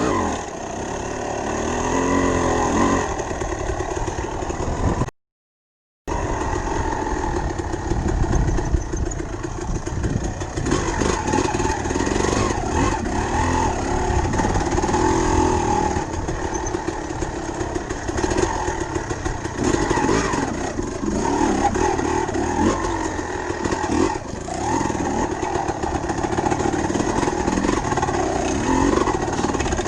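Dirt bike engine running and revving as the bike is ridden, its pitch rising and falling, with heavy rumble and buffeting throughout. The sound cuts out completely for about a second, around five seconds in.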